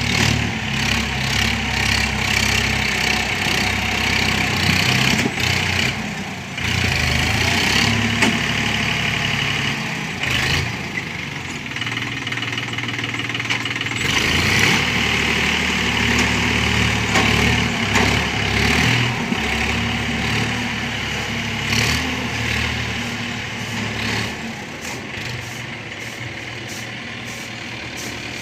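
Swaraj 963 FE tractor's diesel engine running steadily, its loudness rising and falling a little as it works.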